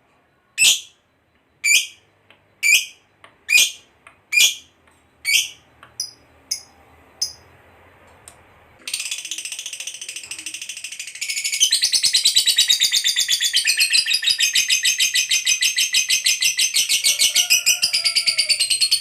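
Lovebird calling: a series of sharp, high shrieks about a second apart that grow fainter, then from about nine seconds in a long, rapid, unbroken chattering trill, the 'ngekek panjang' prized in fighter lovebirds, louder from about twelve seconds on.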